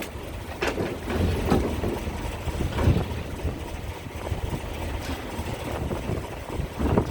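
Gusty wind buffeting the microphone over a steady low rumble of ferry engines, with a few sharp thumps from the gusts.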